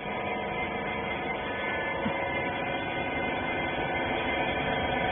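Steady machine hum, likely the rag baler's motor running, with an even drone and a slight rise in level over the stretch.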